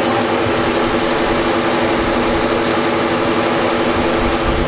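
A vehicle engine idling steadily, a constant even hum.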